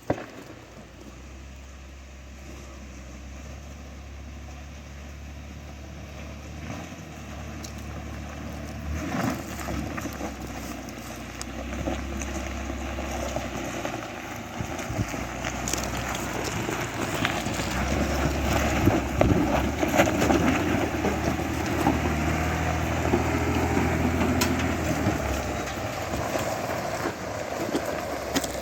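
Pickup truck engine running under load with tires crunching over rough dirt and rock, getting steadily louder and loudest in the second half.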